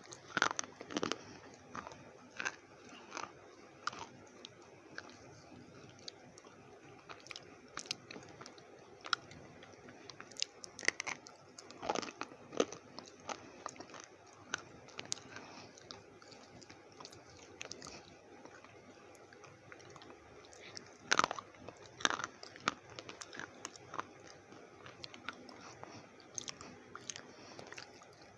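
Slate pencils being bitten and chewed: sharp, irregular crunches with short gaps between them, a few louder ones partway through.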